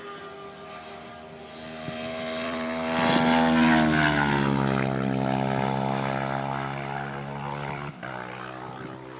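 Superbike engines passing at parade pace: the engine note swells about three seconds in, then drops in pitch as the bikes go by and fades away, with a brief break near the end.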